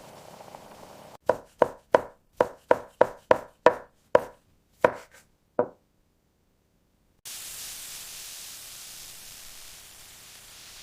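About ten sharp knocks in quick succession, each with a short ring, spacing out toward the end; after a brief silence a steady hiss starts.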